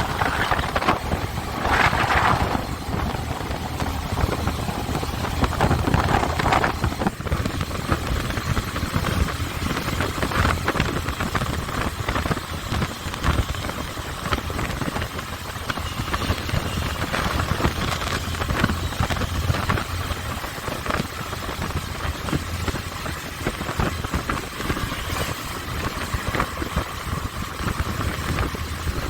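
Motorcycle engine running steadily under a constant rush of noise, as heard from the bike.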